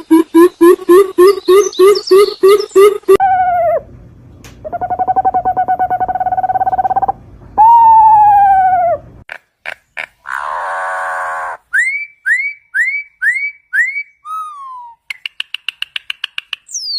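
A string of different bird calls spliced one after another: a fast series of rising notes, then long drawn and falling notes, a harsh buzzy call, five quick upward-curving whistles, a rapid trill, and a falling whistle at the end.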